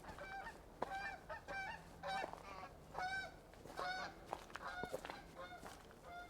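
Several geese honking: a run of short, repeated calls, a few each second, some overlapping.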